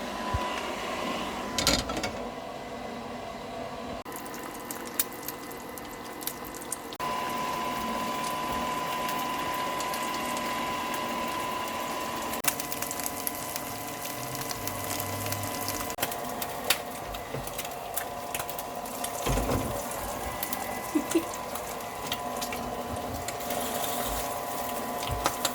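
Vintage Lady Sunbeam bonnet hair dryer running with a steady, even hum, under scattered clicks and knocks of kitchen work. The hum steps abruptly up or down in level a few times.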